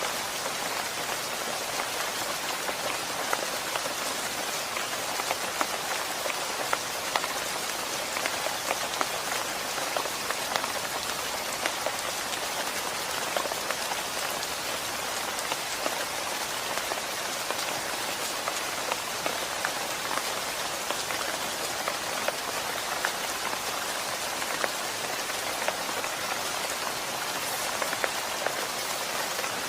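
Steady rain falling on a surface, an even hiss with many close individual drop patters throughout.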